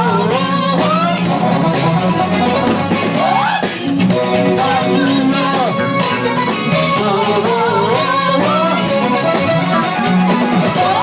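Live funk and R&B band playing steadily at full volume, with singing over the band.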